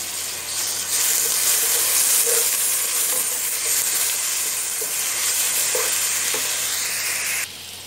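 Ginger-garlic paste and golden-brown onions sizzling in hot oil in a frying pan as they are stirred, a steady hiss that grows a little louder about a second in. The sizzle drops off suddenly near the end.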